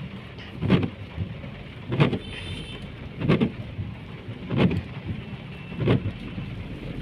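Windscreen wipers sweeping at a steady pace, five strokes about 1.3 seconds apart, over the steady noise of the car and rain heard from inside the cabin.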